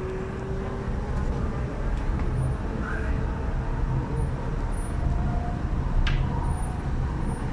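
Cabin running noise of an MTR East Rail line R-Train electric multiple unit travelling between stations: a steady low rumble with one sharp click about six seconds in.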